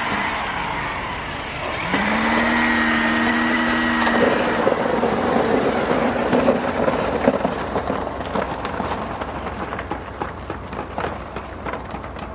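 Construction machinery running: a motor hum rises in pitch about two seconds in, holds steady and stops about two seconds later, over steady engine noise and scattered clatter.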